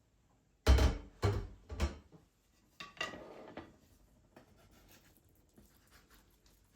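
Household handling noises: three hard knocks in quick succession, then a clatter with a brief ring, as of dishes or objects being set down, followed by faint small clicks.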